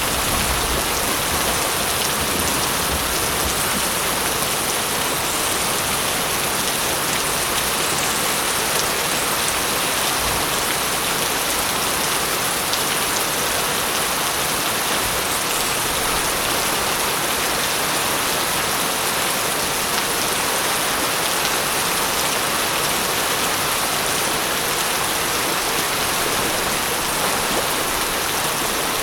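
Steady heavy rain falling, a dense even hiss of drops, with the tail of a low thunder rumble dying away in the first second or so.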